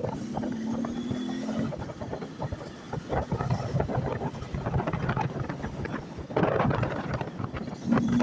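A 160 cc motorcycle running along the road, with wind buffeting the microphone. A steady tone with overtones is held for about the first second and a half, then fades.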